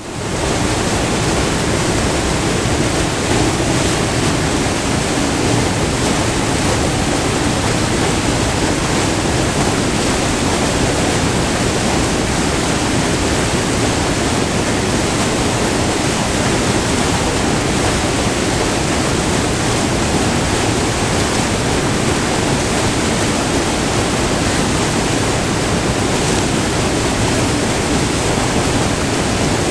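Steady rush of white water pouring over a short, multi-tiered river waterfall, fading in at the very start.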